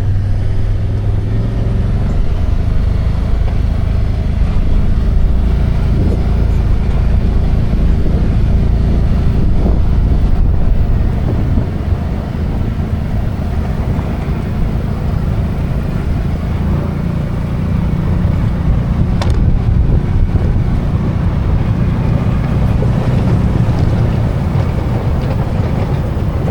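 Vehicle driving, heard from on board: a steady low rumble of engine and road noise, with a couple of brief clicks late on.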